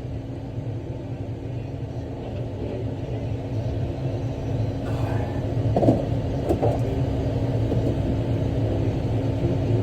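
Bell articulated haul truck's diesel engine running, a steady low drone and hum heard from inside the cab that slowly grows louder, with a couple of light knocks about six seconds in.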